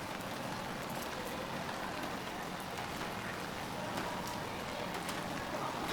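Steady rain falling on a city street, an even hiss with a few sharp drip ticks scattered through it.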